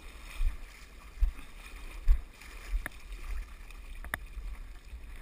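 Faint flowing river water with low rumbling bumps on the microphone, and two sharp clicks about three and four seconds in.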